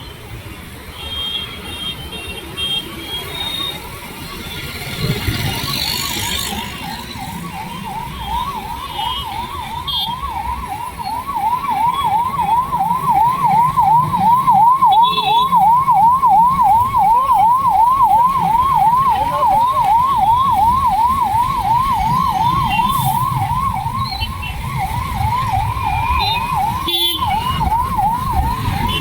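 Electronic siren sounding in a fast rising-and-falling yelp, about two or three sweeps a second. It swells in over the first few seconds and then keeps going steadily.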